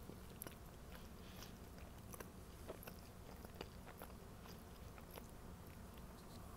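Faint sounds of someone chewing and biting into a sandwich: soft, irregular clicks and small crunches over a low steady hum.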